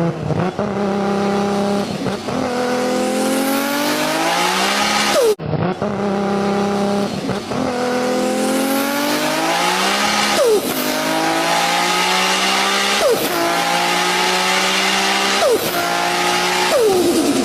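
Sports car engine accelerating hard. Its pitch climbs, drops at each gear change and climbs again, over and over.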